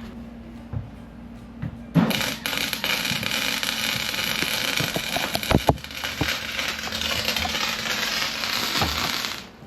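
Electric welding arc crackling in one continuous run of about seven seconds, starting about two seconds in and cutting off just before the end, with a few sharp pops along the way. A steady low hum is heard before the arc strikes.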